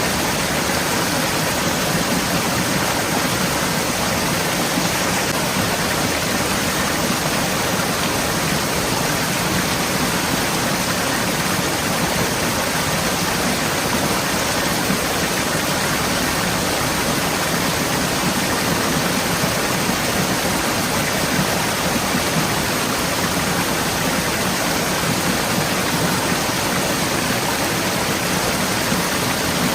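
Forest stream flowing steadily over rocks, an even rushing of water.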